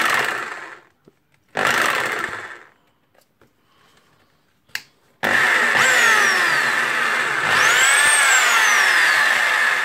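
Makita HR2470 corded rotary hammer drill run on test: two short bursts on the trigger, then a longer run of several seconds from about halfway in, its pitch falling, rising and falling again as the trigger is eased and squeezed.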